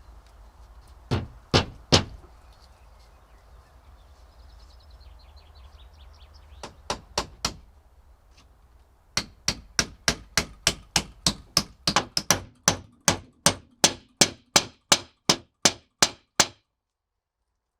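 Hammer blows on nails and wood: a few scattered strikes, then a steady run of about three blows a second that stops abruptly near the end.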